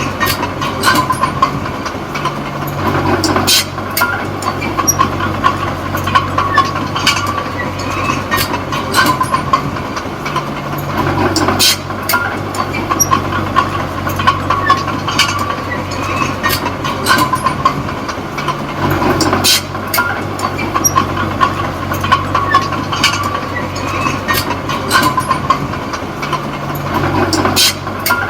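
Komatsu D20P small bulldozer working: its diesel engine running steadily under a constant whine, with frequent sharp clanks from the steel tracks. The engine note shifts about every eight seconds.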